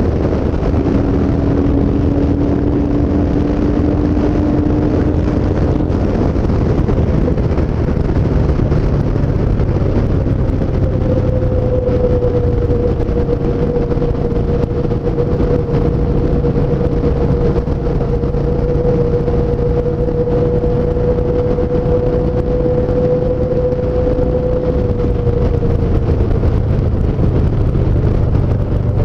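Yamaha SCR950's air-cooled V-twin engine running steadily as the motorcycle rides at speed, with wind and road noise. A steady hum moves up in pitch about a third of the way in and holds, then sags slightly near the end.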